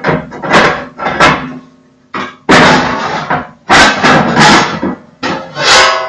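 Cast-iron inner side panels of a Koza K6 wood stove being worked loose and pulled out of the firebox: a series of metal clanks and knocks with a longer grinding scrape in the middle, and the last knock near the end leaves the iron ringing briefly.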